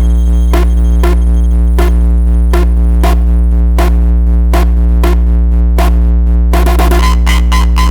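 Electroacoustic collage music built from one processed sample: a steady low electrical hum under sharp pulses a little under a second apart, which break into a quick stutter of about five a second near the end.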